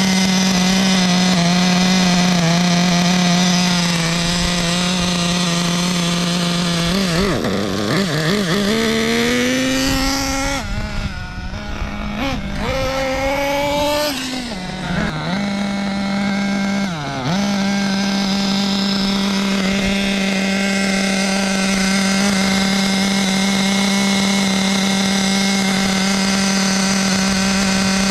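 Small two-stroke nitro glow engine (SH .21) in an RC buggy running during break-in, holding a steady buzzing pitch. Partway through, the pitch dips and rises several times with throttle changes before settling back to a steady run.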